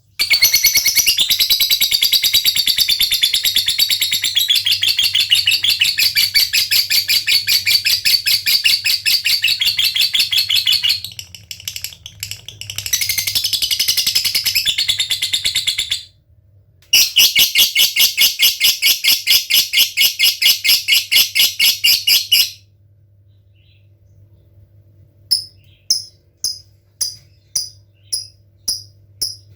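Lovebird giving its long, rapid rattling chatter ("ngekek") in bouts of several seconds, broken by short pauses. Near the end these give way to separate short high chirps, the ticking "ngetik" call.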